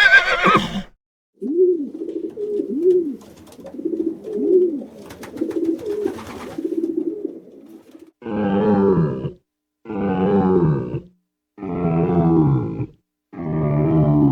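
A run of animal calls: the end of a horse whinny, then a string of soft, repeated cooing calls rising and falling in pitch, then four long, loud calls, each about a second, dropping in pitch at the end.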